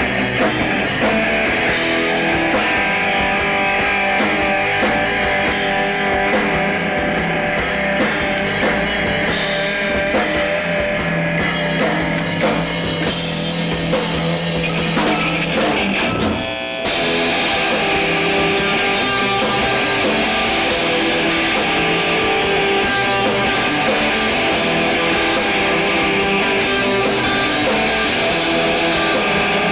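Emo rock band playing live: loud electric guitars and drum kit. The sound drops out briefly a little past halfway, then carries on.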